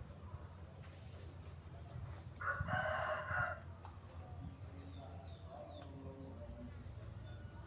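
A rooster crowing once, about two and a half seconds in, over a steady low hum.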